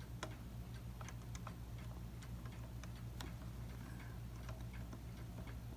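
Faint small metallic clicks at uneven spacing, a few a second, from a clock's minute hand and dial fittings being worked by hand as the hand is eased off its arbor, over a steady low hum.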